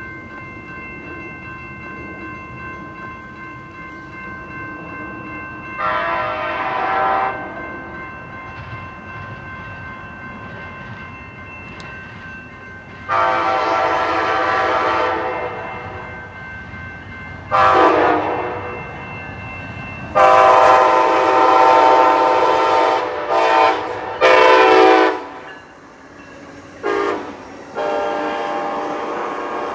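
Locomotive air horn sounding a series of blasts over the rumble of a train: two long blasts, a short one, then a long blast broken into pieces, the long-long-short-long pattern of a grade-crossing signal, followed by a short and a longer blast near the end.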